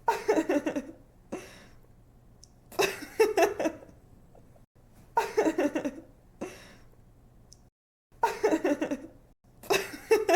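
A young woman laughing in five short bursts a couple of seconds apart, each a quick run of giggling "ha" pulses that trails off.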